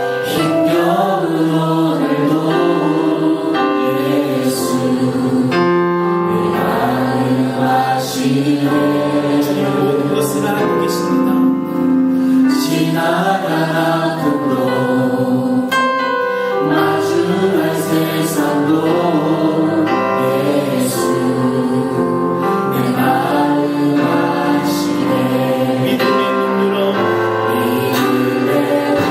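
Choir and congregation singing a Christian hymn with instrumental accompaniment.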